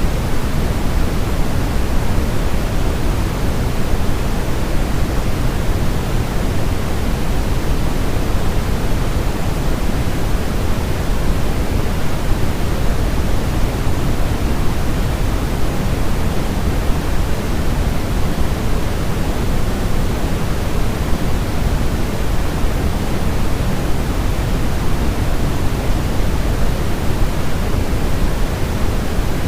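Steady, unbroken white noise for baby sleep, a smooth hiss weighted toward the low end like pink noise, without any change in level.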